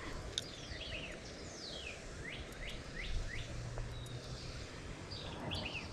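Birds calling: a string of short chirps that sweep quickly in pitch, including four quick rising notes about two seconds in, over steady outdoor background noise.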